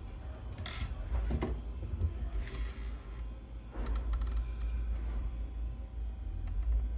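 Firecrackers and fireworks going off: scattered sharp cracks, a quick cluster of them about four seconds in, over a low rumble.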